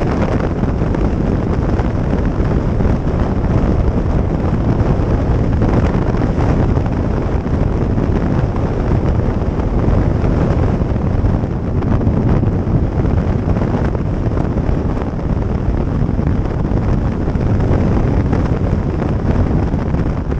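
Loud, steady wind rush on the microphone of a camera on a moving motorcycle, with the motorcycle's running and road noise beneath it.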